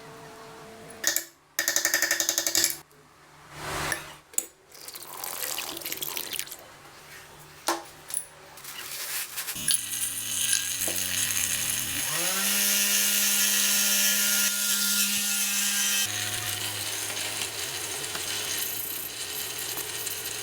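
Metal parts and hand tools clicking and clinking, then a small power-tool motor spinning up about twelve seconds in and running at a steady speed, its note shifting a little near the end.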